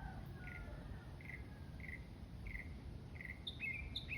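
A songbird singing a series of short, evenly spaced high notes, about one and a half a second, switching near the end to a quicker phrase that alternates a higher and a lower note. A low steady rumble lies underneath.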